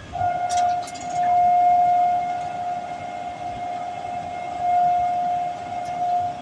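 A single steady, horn-like tone held at one pitch for about six and a half seconds, swelling and easing in loudness before cutting off.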